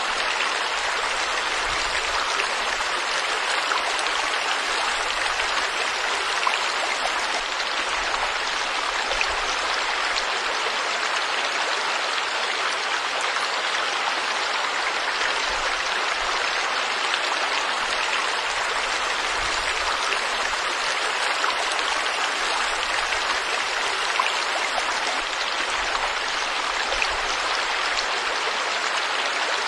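Forest stream or river water flowing and splashing steadily, a dense even rush with small droplet splashes through it.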